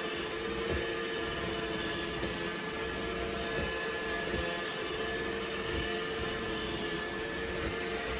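iRobot Roomba Combo i5+ robot vacuum running with a steady motor hum and a constant whine.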